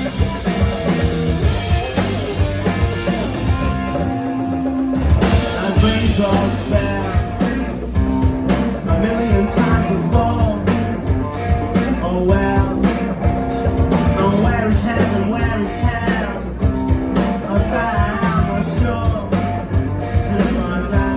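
A rock band playing live: drum kit keeping a steady beat under guitars and bass.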